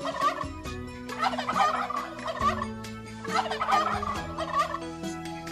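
Turkey gobbling: several rapid, rattling gobble calls in repeated bursts.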